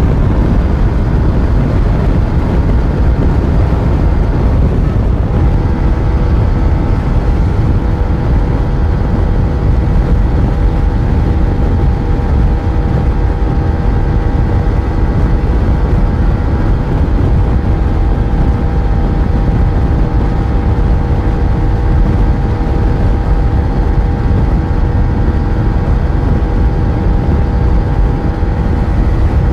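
Yamaha FZ1's inline-four engine running at a steady cruise under a heavy low rumble of wind and road noise. About five seconds in, the engine note steps down in pitch, then holds steady.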